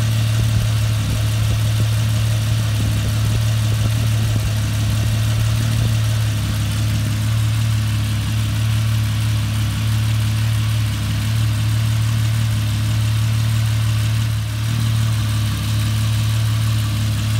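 Jeep Cherokee XJ's 4.0-litre straight-six engine idling steadily.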